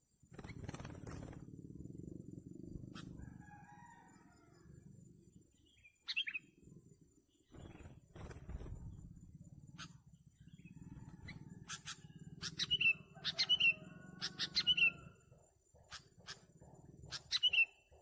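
Sooty-headed bulbuls (kutilang) giving short, sharp chirps that come in quick clusters in the second half, over stretches of low rumble.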